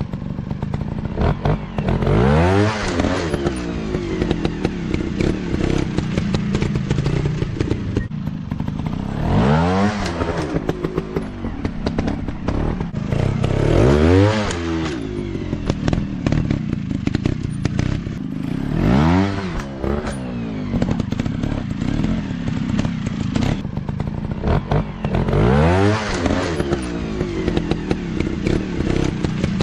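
Off-road dirt bike engines running continuously, revving hard about five times with a sharp rise in pitch each time, over steady clattering engine noise.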